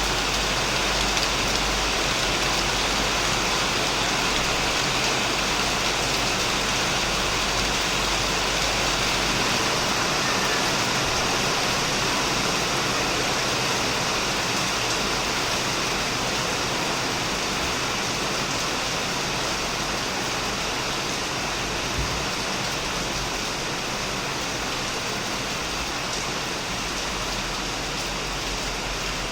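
Heavy rain falling steadily on a shed roof and surrounding plants, a dense even hiss of drops. It eases very slightly towards the end.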